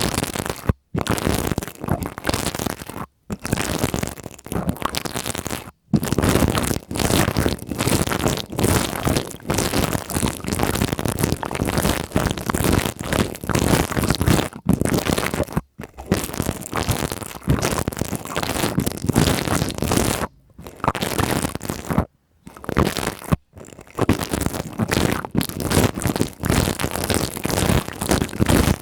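Pipe cleaners rubbed and scratched against a microphone: a close, continuous fuzzy scratching with a few brief drops to silence.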